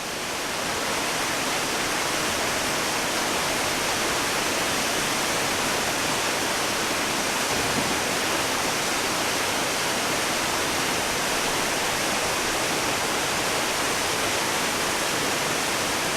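Waterfall rushing steadily, a dense even roar of falling water.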